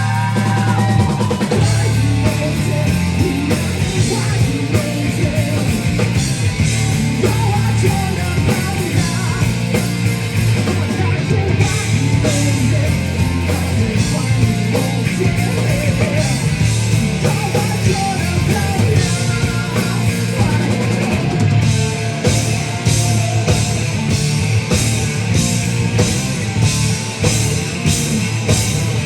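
Live rock band playing loud: drum kit, bass and guitars in full band sound, with steady cymbal strokes about twice a second in the last several seconds.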